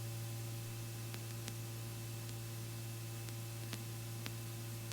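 Faint steady hum and hiss of an aircraft intercom line between transmissions, with a few faint clicks.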